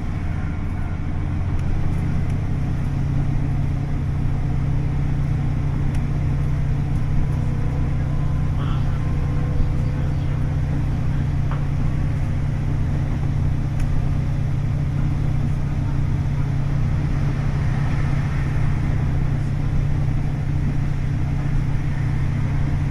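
Onboard running sound of a KiHa 40 diesel railcar: its DMF15HSA horizontal six-cylinder diesel engine runs with a steady low drone, along with the noise of the car in motion.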